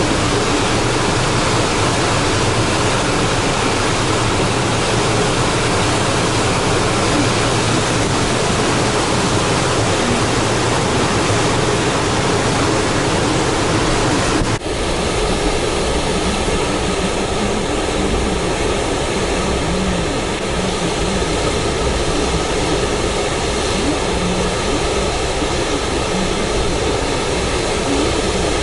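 Typhoon wind and rain: a loud, steady rushing noise. It dips briefly and changes character about halfway through.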